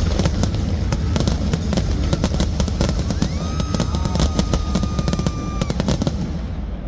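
A dense barrage of aerial fireworks shells bursting, many sharp bangs and crackles in quick succession. A steady high tone is held for about two seconds in the middle, and the bangs stop shortly before the end.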